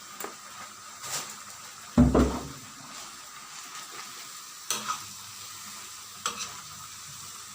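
A spatula stirring and scraping through curry and vegetables in a hot wok, with a steady sizzle and several sharp metal clacks against the pan. The loudest clack, about two seconds in, comes with a dull knock.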